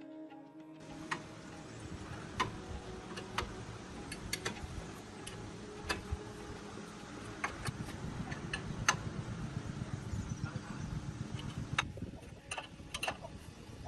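Scattered light clicks and knocks at irregular intervals, about a dozen in all, over a steady low hum.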